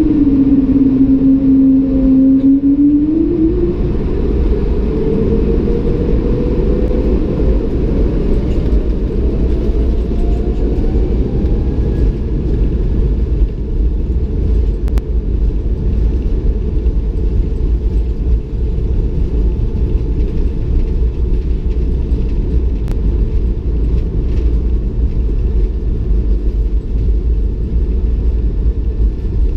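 Bombardier CS300's Pratt & Whitney PW1500G geared turbofans spooling up to takeoff thrust, heard inside the cabin: a loud rumble sets in suddenly with an engine whine that rises steadily in pitch over the first ten seconds or so. The steady rumble of the takeoff roll then carries on.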